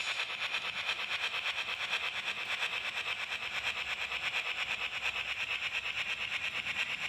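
Model train running on the layout track, with a quick, even, steady rhythmic beat and a hissy upper tone.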